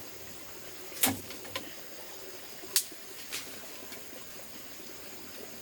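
Steady trickle of water with a few sharp clicks or knocks scattered through, the loudest about a second in.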